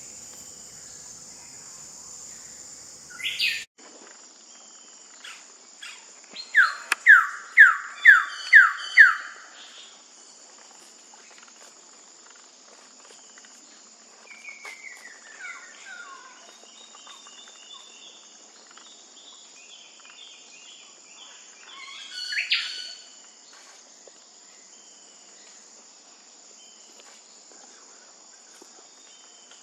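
Wilson's bird-of-paradise calling: a loud series of six quick notes, each sliding downward, about seven seconds in, with other scattered bird calls later. A steady high insect drone runs underneath.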